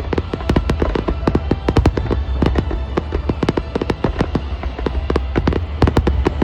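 Fireworks going off in quick succession: many sharp cracks and pops a second, over a steady low rumble.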